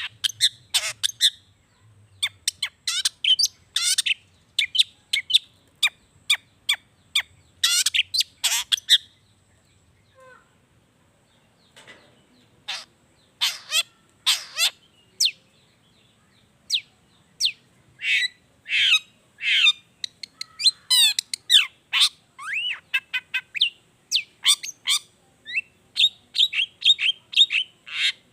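Long-tailed shrike (cendet) singing vigorously: quick runs of sharp, steeply falling notes. There is a pause of about two seconds a third of the way in, and then the song resumes, getting faster near the end.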